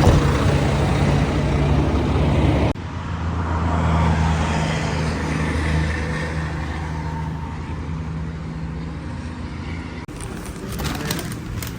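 A motor vehicle engine running steadily with a low hum, the sound breaking off abruptly twice. A few sharp clicks come near the end.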